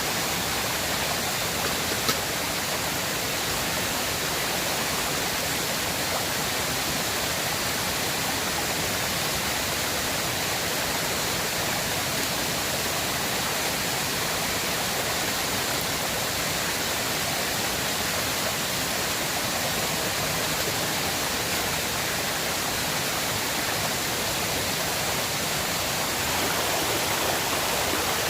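River water rushing steadily, with one short click about two seconds in.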